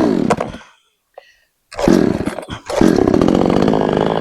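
Chainsaw engine running in two spells. A short burst falls away in pitch within about half a second, then after a pause of about a second it runs again, loud and steady.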